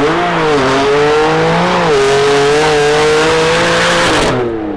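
A high-performance sports car engine accelerating hard. The engine note climbs and drops sharply twice at upshifts, holds a steady high pitch, and then falls away near the end.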